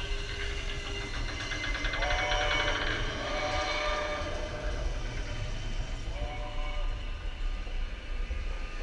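Expedition Everest roller coaster train running along its track, heard from the front car: a steady low rumble with a brief rattle about two seconds in and a few short higher tones.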